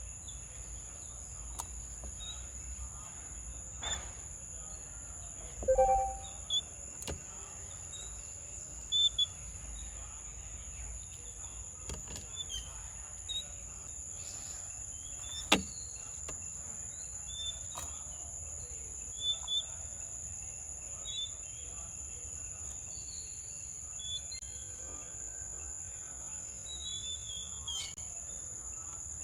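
Small birds giving short, scattered chirps over a steady high-pitched insect drone, with a few sharp clicks now and then.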